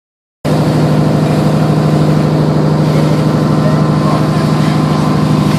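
Motorboat engine running at a steady speed, a loud low hum heard from aboard the boat, cutting in abruptly about half a second in.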